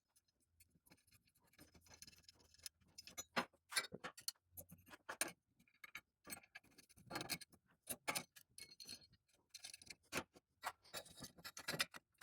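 Faint, irregular clicks and light metallic clinks from the jig's steel clamp and bolts being handled and tightened by hand.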